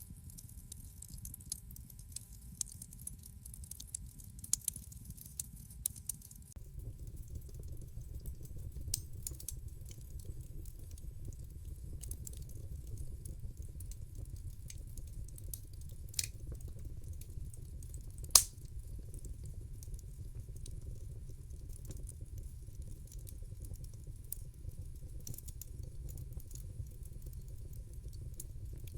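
Wood fire crackling in a fireplace: a steady low rumble with irregular small pops and snaps, and one much louder pop about two-thirds of the way through. A few seconds in, the low rumble grows louder while the hiss above it fades.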